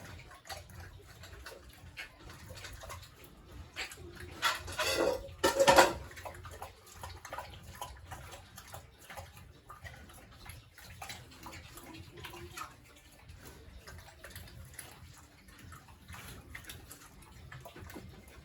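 Pigs in a pen: two loud squeals about four and a half and six seconds in, over a steady background of small knocks and clatter.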